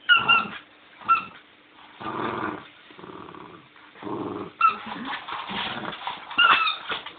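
A Bichon Frise growls as it plays with a squeaky toy bone, and the bone squeaks in short, sharp bursts about four times.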